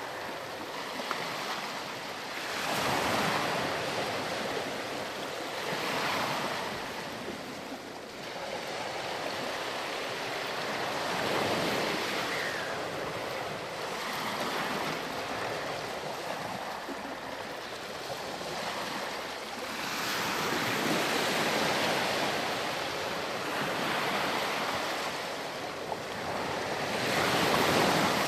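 Ocean surf: waves breaking and washing up the shore in swells every few seconds, with a steady hiss of water between them. The loudest swell comes near the end.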